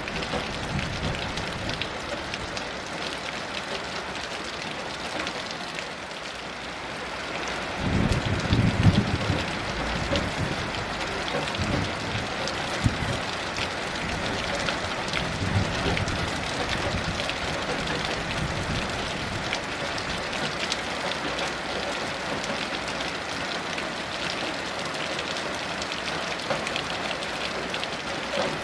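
Heavy rain falling steadily, with low rumbles of distant thunder rolling in about eight seconds in and a few weaker rumbles after.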